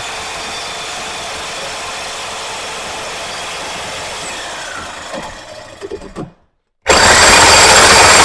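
Power tool cutting through steel exhaust pipe clamped in a vise. It runs steadily, winds down about five to six seconds in, and after a brief break comes back much louder and harsher, with a metallic squeal, near the end.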